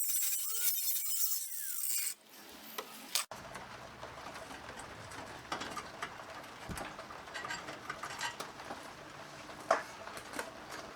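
A power tool cuts through the steel cross member tube for about two seconds, then stops. After that comes scattered light metallic clicking and clinking as tools and metal are handled.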